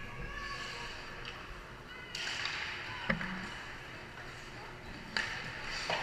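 Game sounds on an ice rink: two sudden scraping hisses, about two and five seconds in, and a sharp knock about three seconds in, over voices in the background.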